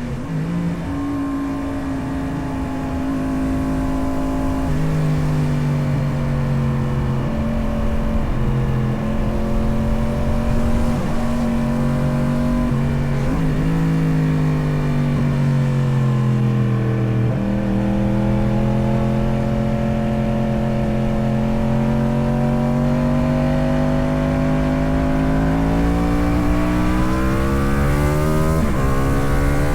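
Motorcycle engine running while riding through curves. Its pitch falls through the middle and then climbs steadily in the second half, with a few sudden steps in pitch along the way.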